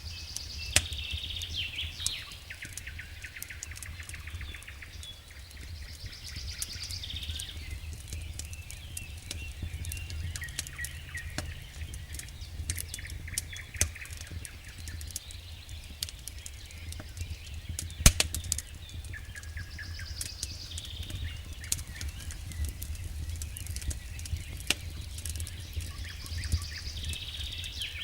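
Wood fire burning in a fireplace, with a steady low rumble and frequent sharp crackles and pops, one loud pop about two-thirds of the way through. A higher-pitched sound comes back about every seven seconds over the fire.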